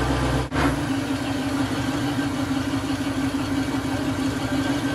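Off-road 4x4 engine running steadily at about idle. There is a brief break about half a second in, after which the deep low rumble drops away.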